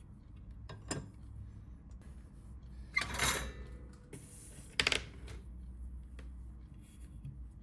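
Small hard tools and phone parts being handled on a work surface: a few scattered clicks, a louder clatter about three seconds in, and a sharp click near the middle, over a low steady hum.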